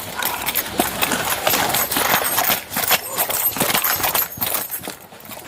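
Quick, irregular footfalls and knocking clicks from a police tracking dog and its handler moving out on the track.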